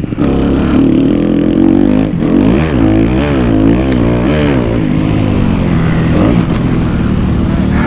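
Kawasaki KX250F four-stroke single-cylinder dirt bike engine under hard riding, the throttle working it up and down. About two seconds in the pitch swings up and down five or so times in quick succession, then it settles to a steadier drone.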